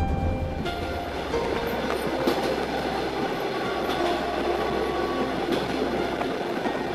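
A passenger train running along the track: a steady rumble and rattle of wheels on rails, with some clickety-clack.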